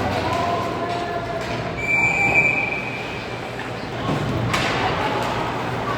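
Ice hockey arena din: crowd chatter and rink noise, cut through about two seconds in by one steady high whistle blast lasting about a second, typical of a referee's whistle stopping play.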